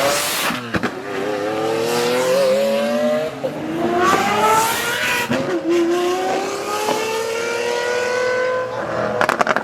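A performance car's engine revving hard as it accelerates away, its pitch climbing through the gears and dropping back at upshifts about three and five and a half seconds in. A few sharp cracks come near the start and near the end.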